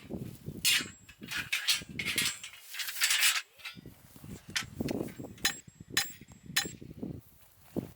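Irregular knocks and scraping noises, then a series of sharp clicking knocks about half a second apart in the second half.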